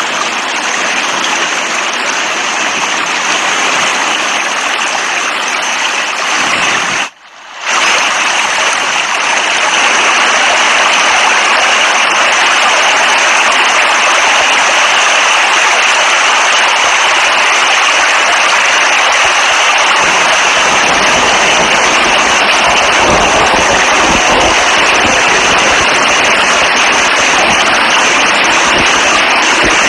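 Steady heavy rain, a dense even hiss. It drops out for under a second about seven seconds in, and a low rumble joins it about two-thirds of the way through.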